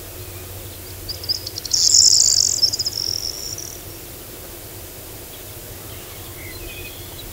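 A songbird sings one loud, high, fast trill about a second in, which thins into a fainter whistled note before stopping, over a steady background of outdoor noise.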